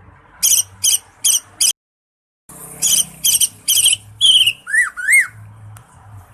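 Cucak ijo (green leafbird) singing: a run of rapid, high, repeated notes, cut off briefly by a moment of dead silence, then more rapid phrases ending in two lower rising-and-falling notes. A faint low hum runs underneath.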